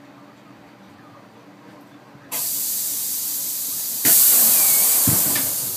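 Compressed air hissing through the air-ride valves of a bagged 1989 Mazda B2200 mini truck: a steady hiss starts suddenly about two seconds in, jumps louder near four seconds, then begins to fade.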